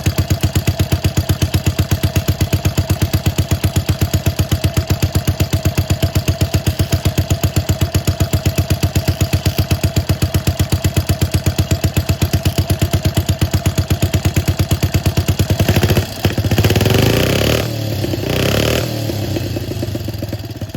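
D45S motorcycle engine running at a steady, evenly pulsing idle, then revved up twice in quick succession before it drops back toward idle.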